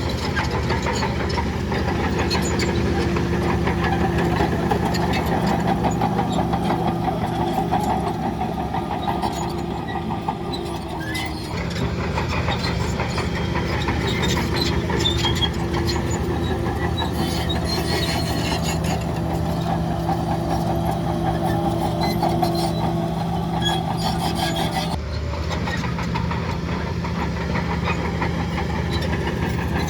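Heavy diesel earthmoving machinery running steadily, a continuous engine drone with metallic clatter. The sound shifts abruptly twice, about a third of the way in and near the end.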